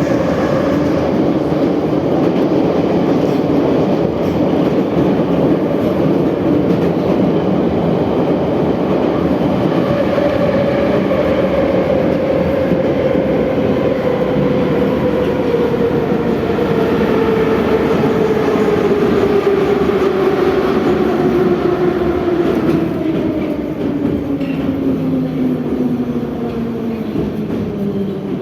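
81-717/714 metro train running through the tunnel, heard from inside the car, with a whine from its traction motors and a rumble from the wheels on the rails. The whine slides steadily downward in pitch over the last two-thirds as the train slows for the next station.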